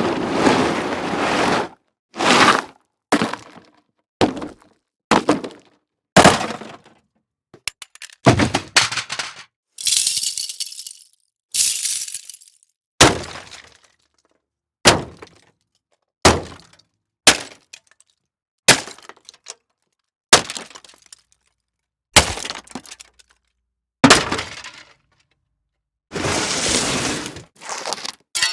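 A run of separate impact sound effects played one after another: about twenty short, sharp hits, cracks and breaks, each ending in a quick decay and a moment of silence. A few are longer and noisier, around ten to twelve seconds in and near the end.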